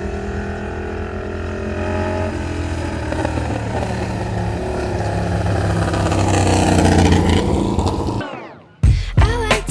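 Motorcycle engine running and revving, rising in pitch and loudness over several seconds, then sweeping down and cutting out about eight seconds in. Music with a beat starts in the last second.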